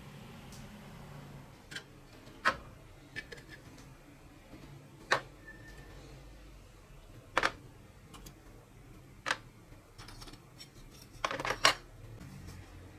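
Sharp metal clicks and clinks from small parts and tools being handled while a rusty toy truck is restored. There are about seven single clicks a second or two apart, then a quick cluster near the end.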